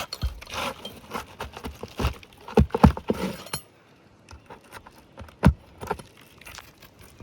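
A metal pry tool knocking and scraping against asphalt roof shingles as roofing nails are worked loose. Irregular clacks and scrapes, the sharpest a few seconds in and again about five and a half seconds in.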